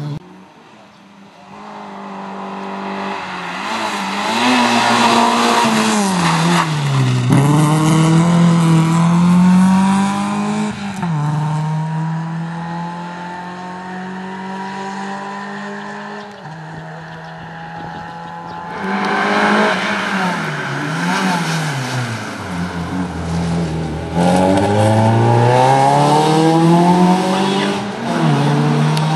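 Rally car engine heard from on board, driven hard on a stage. Its pitch climbs and drops through gear changes and lifts off the throttle, and it runs at a steadier, quieter pitch for several seconds in the middle of the stretch.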